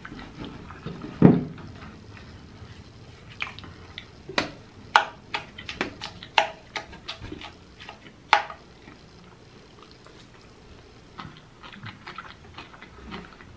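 Close-miked chewing of thick pizza crust: wet mouth clicks and smacks coming in irregular runs, with one louder low thump about a second in.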